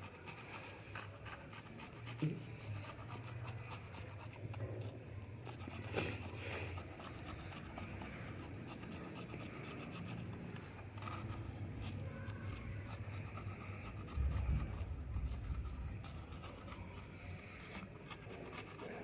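Rubbing and scraping on the glass of an LCD panel as the old polarizer-film glue is cleaned off with screen cleaner: a continuous faint scratchy rubbing with small ticks and a couple of sharper clicks, over a low hum.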